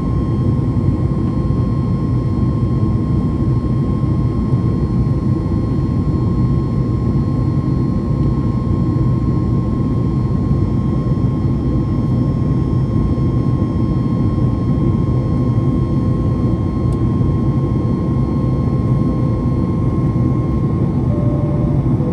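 Cabin noise of a Boeing 737 MAX 8-200 airborne after takeoff: a steady deep rumble of its CFM LEAP-1B jet engines and airflow, with a thin constant whine riding on top.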